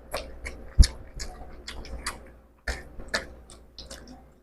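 Close-up eating sounds of fish curry and rice: chewing with many quick, irregular mouth clicks and smacks, and a couple of soft knocks.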